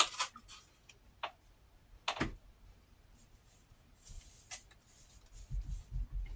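Quiet room tone broken by three short clicks or taps spread a second or more apart, with a few low soft bumps near the end.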